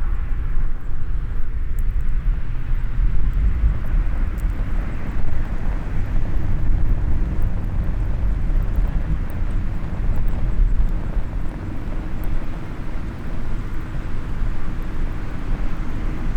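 Steady low rumble of outdoor ambience with a faint hiss, and a few light, sharp crackles from a small wood fire in a mini fire pit.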